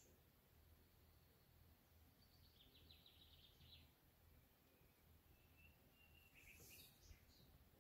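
Near silence with faint birdsong: a short rapid trill about two and a half seconds in and a few high chirps near the end, over a faint low hum.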